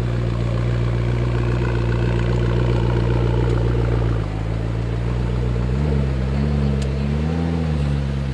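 McLaren 12C's twin-turbo V8 running at low revs, steady and loud for about four seconds, then settling lower, with two light throttle blips that briefly lift the pitch near the end.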